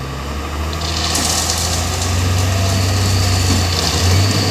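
Heavy truck's diesel engine running, growing louder about a second in and picking up revs near the end.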